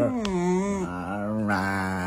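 A dog making one long, low, drawn-out vocal sound with a wavering pitch, between a grumble and a howl.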